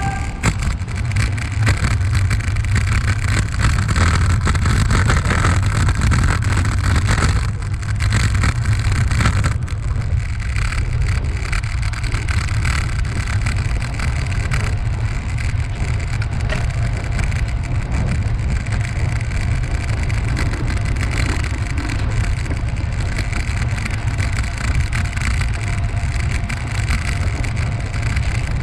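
Wind buffeting the microphone with a steady low rumble, the running noise of a ride along a paved path.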